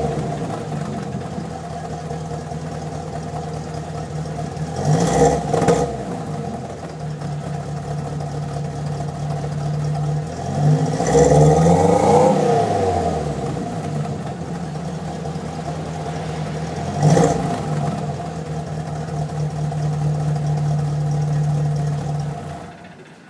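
1982 Chevrolet Chevette engine idling and being revved: a quick double blip, a longer rev that rises and falls back, and one short blip, each settling back to a steady idle. The sound cuts off near the end.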